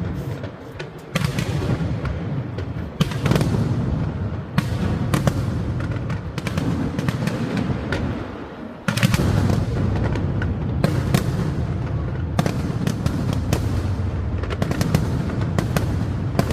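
Fireworks display going off in rapid succession: sharp cracks and bangs from bursting shells over a continuous low rumble, with heavier bursts coming every few seconds.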